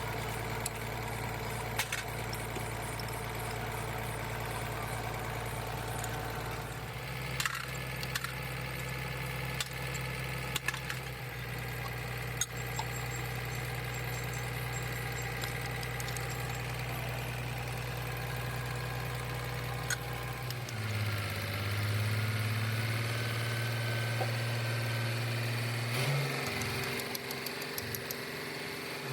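An engine running steadily, its speed stepping to a new pitch about seven seconds in and again around twenty seconds in, with scattered short metallic clicks and taps.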